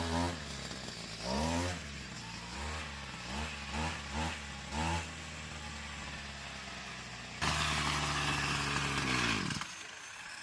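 Motorcycle engine idling, with several short throttle blips that rise and fall in pitch. Near the end it is held at a higher rev for about two seconds, then cuts off suddenly.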